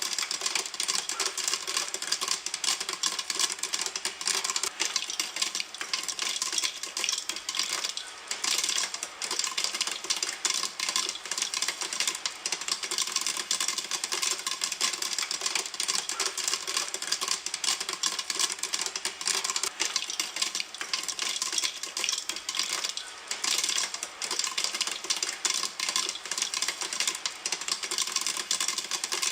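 Popcorn kernels popping in a pan, with many sharp pops in quick succession.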